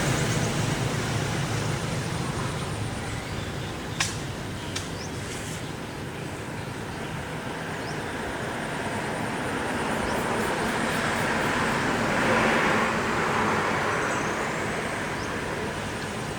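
Road traffic passing: an engine hum fading away near the start, then another vehicle swelling up and fading out later on, with a single sharp click about four seconds in.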